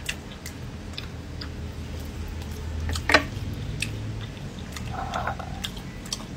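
Close-up mouth sounds of a person eating by hand: scattered wet chewing and lip-smacking clicks, with one louder smack about three seconds in. A low steady hum runs underneath.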